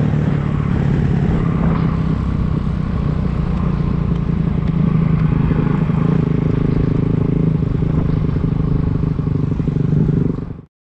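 Dirt bike engine running at a fairly steady speed while riding, cutting off suddenly near the end.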